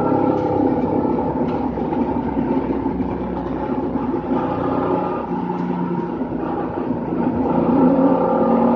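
Race car engine running at fairly steady revs with small rises and falls, heard from inside the caged cockpit.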